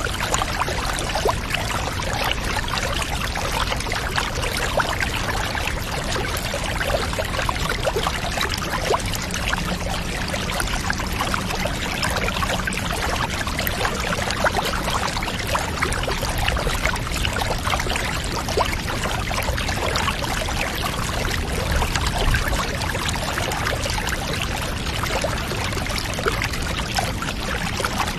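Water pouring steadily into a bath, a dense even trickling and splashing with many small droplet ticks.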